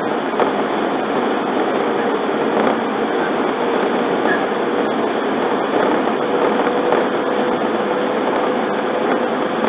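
Interior running noise of a JR 115-series electric train at speed: a steady rumble of wheels and running gear with a faint steady tone through it.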